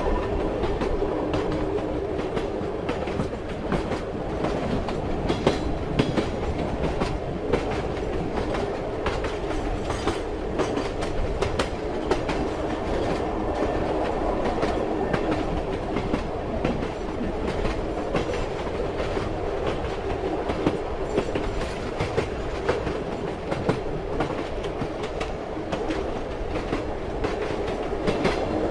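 Train wheels clattering over rail joints: a steady rolling rumble with frequent sharp clicks.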